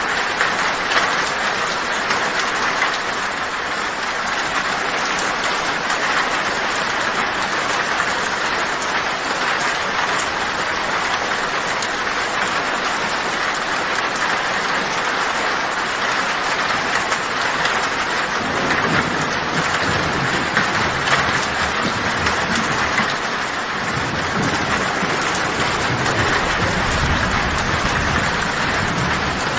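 Heavy rain on a tin roof, a dense, steady patter of drops on metal. From about two-thirds of the way in, a low rumble of thunder rolls in beneath it, eases briefly and builds again near the end.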